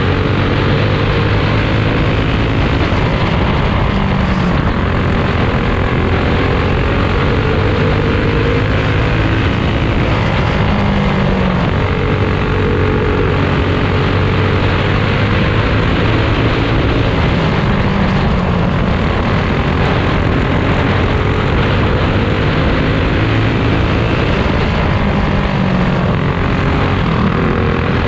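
Small four-stroke go-kart racing engines running flat out in a dirt-track heat race, their note rising and falling about every seven seconds as the karts go down the straights and through the turns.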